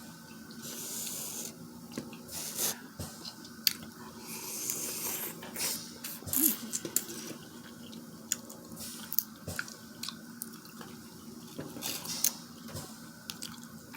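Wet eating sounds from a sauce-covered seafood boil being handled and eaten: scattered sharp clicks and cracks with short wet squishing noises.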